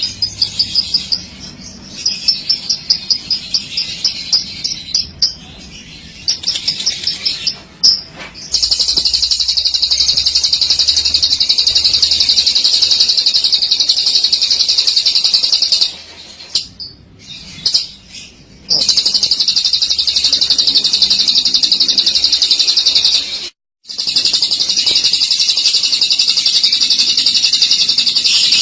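Lovebird giving its long 'ngekek' song: a fast, high chattering trill. In the first few seconds it comes in short choppy runs of rapid chirps, then from about eight seconds in it runs unbroken for long stretches, pausing briefly twice.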